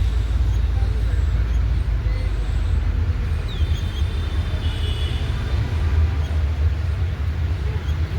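A steady low rumble dominates, with a few faint, thin, high chirps from small birds, most of them between about three and a half and five seconds in, one of them a short falling note.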